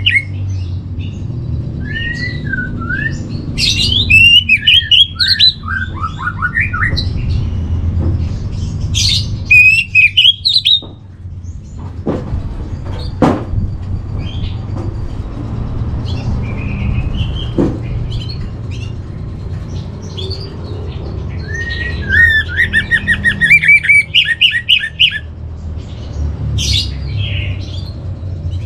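Orange-headed thrush singing in bursts of rapid, varied warbling phrases, with a quieter lull in the middle where a few sharp clicks are heard. A low steady hum runs underneath.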